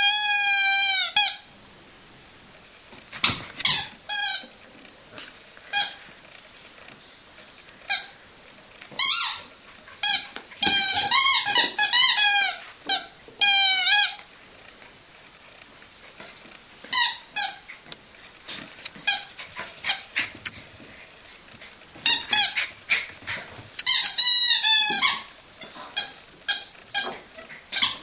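Rubber squeaky dog toy being chewed by a dog: clusters of quick squeaks that waver up and down in pitch, with pauses of a few seconds between clusters.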